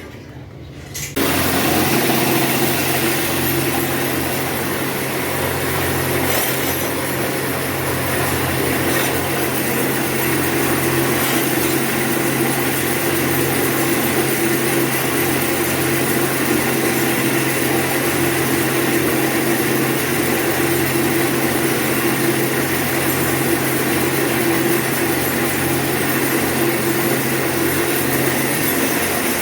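A power tool's motor starts about a second in and then runs steadily, a hum under a broad hiss.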